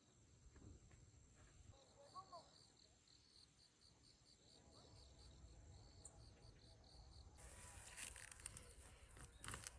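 Faint insect chirping, a soft high pulse repeating about three or four times a second. Near the end it gives way to louder rustling with a few sharp clicks.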